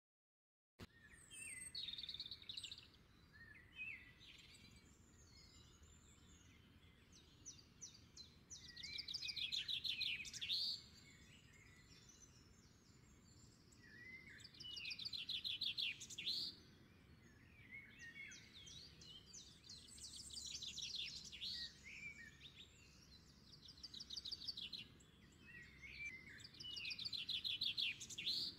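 Birdsong: phrases of high chirps and rapid trills, repeated about every six seconds, with scattered single chirps between them.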